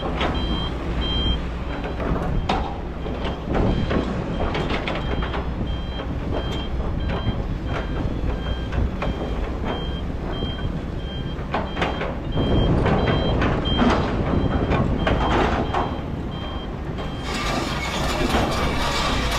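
Kobelco excavator's diesel engine running under load, with a backup alarm beeping about twice a second and occasional clanks. Near the end a dense metallic rattling sets in.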